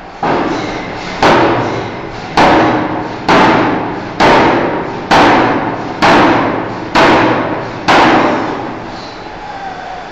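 Power forging hammer striking a steel bar nine times at about one blow a second, each heavy blow ringing and dying away before the next.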